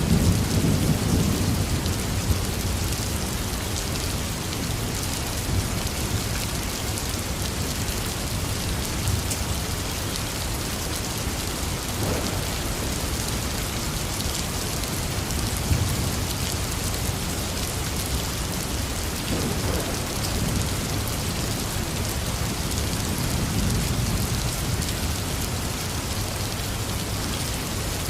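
Intense rain falling steadily, with low rolls of thunder: one at the very start and a few softer ones later on.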